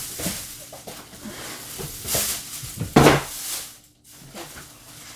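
Grocery bags rustling and items being handled as shopping is unpacked, with a loud rustle about two seconds in and a louder rustle with a knock about three seconds in.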